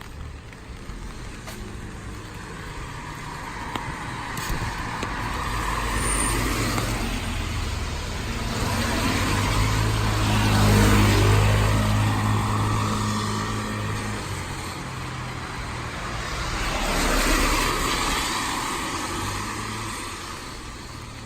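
Two motor vehicles drive past on a rain-wet road, their tyres hissing. The first is the louder one, passing about halfway with a low engine hum and a falling pitch as it goes by; the second passes near three-quarters of the way through.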